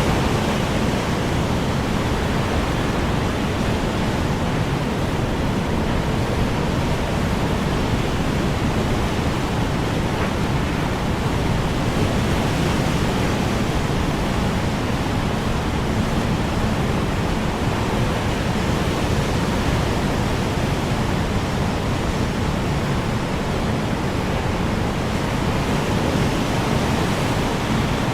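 Strong wind blowing steadily, a dense, even rushing noise with no gusts or breaks.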